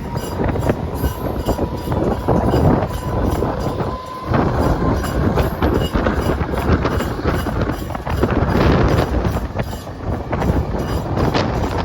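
Mumbai suburban local electric train running, with dense rattling and clatter and a thin steady whine for the first few seconds.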